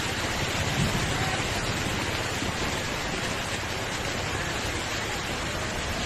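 Heavy summer-storm rain falling, a steady even rushing hiss.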